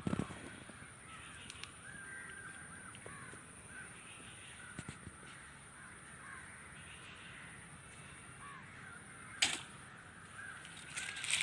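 Crows cawing faintly over and over, with one sharp knock about nine and a half seconds in.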